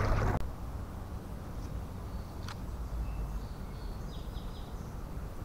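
Quiet outdoor ambience with a low steady rumble, a single sharp click about two and a half seconds in, and a quick run of short, high bird chirps about four seconds in.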